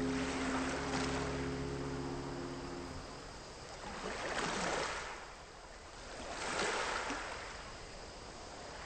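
Small waves washing onto a lakeshore, swelling and falling back three times. Background music fades out about three seconds in.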